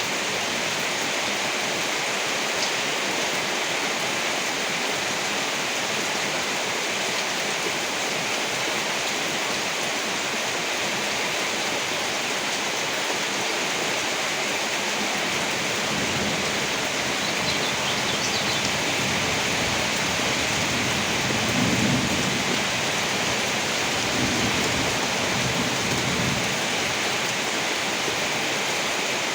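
Steady heavy rain falling. In the second half, low rumbles of thunder roll in, the loudest a little past the middle and another a few seconds later.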